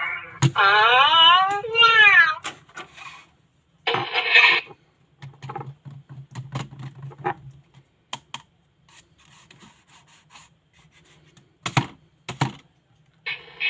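Meowing: wavering, rising-and-falling cries through the first two seconds or so, followed by scattered clicks and taps, with a low buzz for a couple of seconds around the middle.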